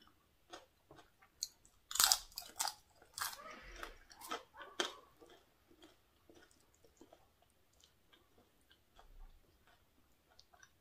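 A person biting and chewing crisp deep-fried dried squid close to the microphone: a run of sharp crunches, loudest about two seconds in, easing into quieter chewing after about five seconds.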